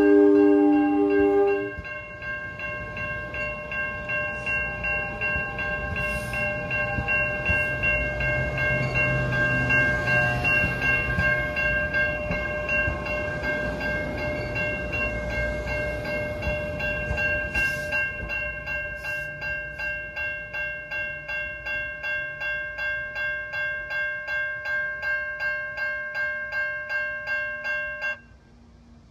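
NJ Transit Arrow III electric multiple unit passing: its horn chord stops about a second and a half in, then the rumble of wheels on rail swells and fades as the train goes by and recedes. Through it, a grade-crossing warning bell rings steadily, about two dings a second, and cuts off suddenly near the end as the crossing clears.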